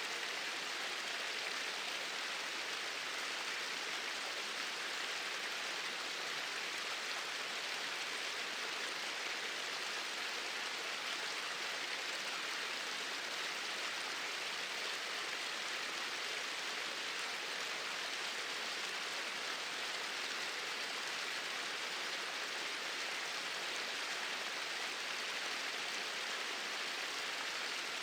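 Small waterfall running in a steady, even rush of falling water, with no breaks or changes.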